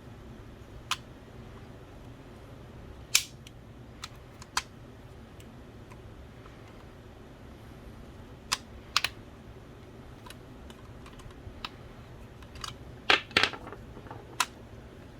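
Irregular sharp clicks and taps of small plastic and metal parts of an original Xbox Philips DVD drive being handled and worked on with tools during disassembly, with a quick cluster of clicks about thirteen seconds in. A faint steady hum runs underneath.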